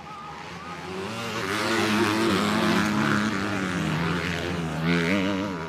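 250cc grasstrack racing motorcycles passing at speed, engines revving up and down through the throttle and gear changes; the noise builds over the first two seconds and stays loud.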